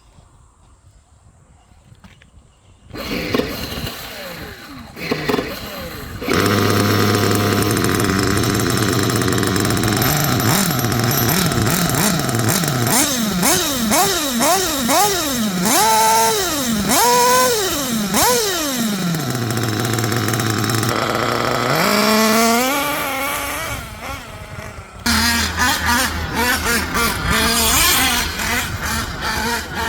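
Small nitro engine of a 1/8-scale RC buggy coming to life a few seconds in and then running loudly, its pitch rising and falling again and again as the throttle is blipped.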